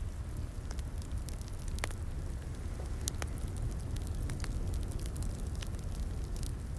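Wood fire in a fireplace crackling: scattered sharp pops and snaps over a steady low rumble of the burning logs, with one loud pop right at the start.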